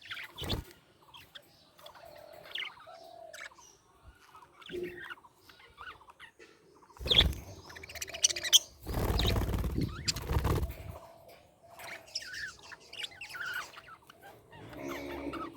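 Budgerigars chirping and warbling in short, scattered calls. About halfway through comes a loud rustling noise lasting about two seconds, the loudest sound here.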